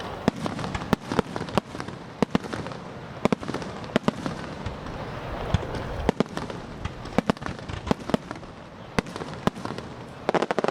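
Aerial fireworks bursting: a long run of sharp bangs at irregular intervals over a steady background rush, with a quick cluster of bangs near the end.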